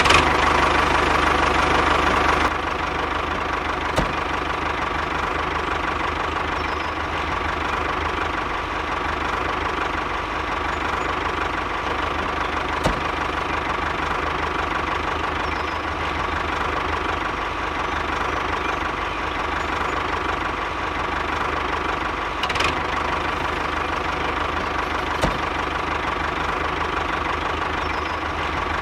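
Motor of a DIY miniature model tractor running steadily with a constant hum, with a few light clicks scattered through.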